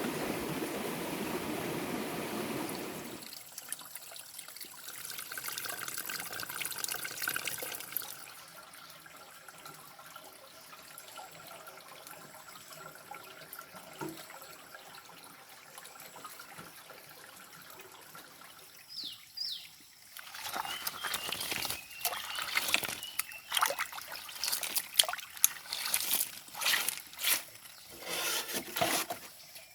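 Water trickling and splashing: a steady rush at first, then quieter, then a run of irregular splashes near the end, with a few bird chirps.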